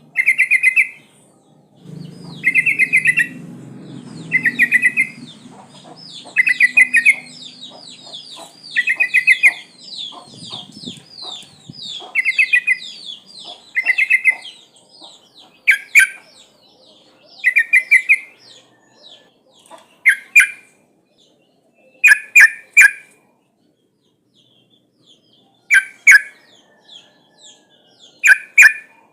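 Yellow-vented bulbul (trucukan) calling: short, loud, chattering phrases repeated every second or two, with a long run of quick falling notes over the first half and more widely spaced calls near the end. Offered as a female calling for a male, used as a lure.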